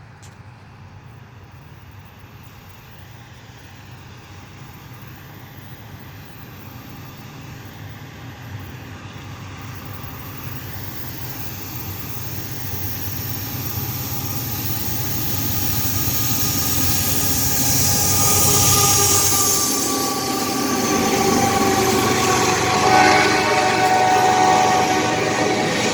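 A CSX freight train approaching and growing steadily louder, its low rumble joined in the second half by several steady high tones from the horn or squealing wheels.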